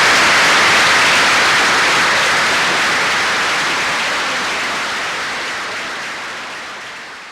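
Audience applauding steadily, fading out gradually toward the end.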